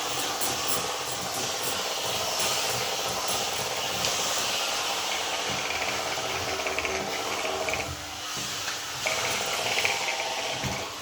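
Bissell steam cleaner running, a steady hiss of steam over the hum of its motor, with a brief dip just before two thirds of the way through.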